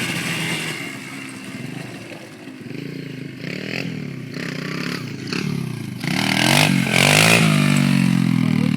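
Pit bike engine revving, its pitch climbing and falling several times and loudest near the end.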